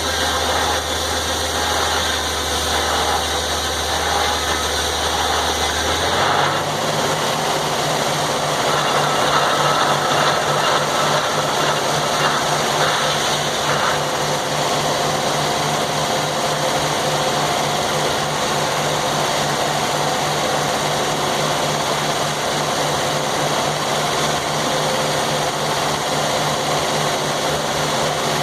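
Sawmill's power-unit engine running steadily; about six seconds in its low note steps up to a higher, steady speed.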